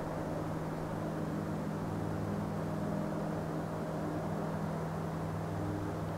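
Rhaetian Railway Capricorn electric multiple-unit train running past, a steady rumble with a constant electric hum made of several steady tones.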